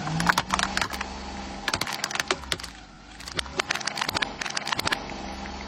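Toy remote-control car running: a steady motor hum with many quick clicks and rattles, easing off briefly about halfway through.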